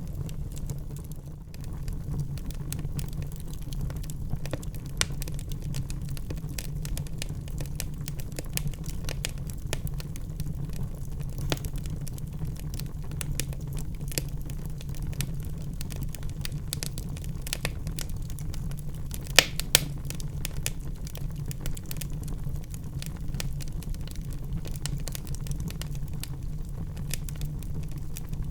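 Wood fire burning in a fireplace: a steady low rumble of the flames with dense, irregular crackling and small pops, and a couple of sharper, louder pops about two-thirds of the way through.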